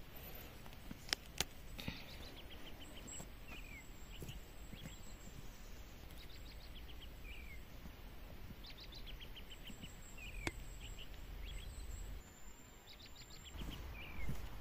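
A songbird singing the same short phrase again and again, every couple of seconds: a quick run of high notes ending in a falling slur. Under it a steady low rumble of wind, and a few sharp clicks about a second in and again about ten seconds in.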